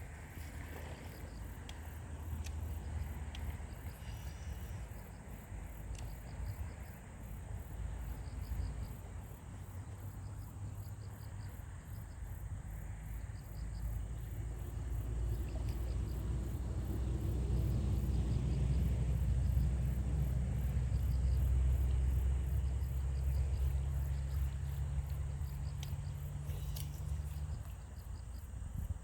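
Insects chirping in a fast, steady pulsing rhythm, over a low hum that swells through the middle and stops near the end.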